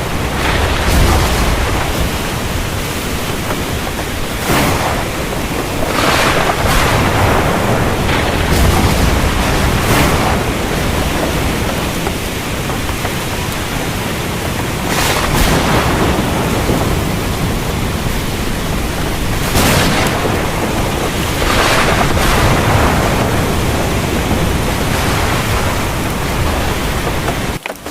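Heavy rain falling steadily as a dense hiss, swelling in short surges every few seconds, with low rolls of thunder underneath. The sound drops out for a split second near the end.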